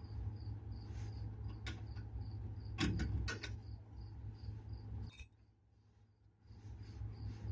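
A few sharp metal clinks and knocks of hand tools on the truck's driveline, the loudest cluster about three seconds in, over steady cricket chirping. The sound cuts out for about a second just after five seconds.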